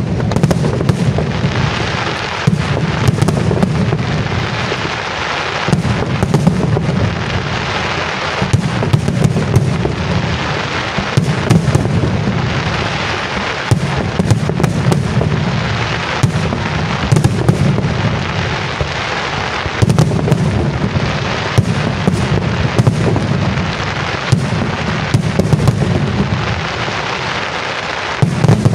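Professional fireworks display: aerial shells bursting one after another in a dense, unbroken barrage, many sharp bangs over a constant rumble and crackle.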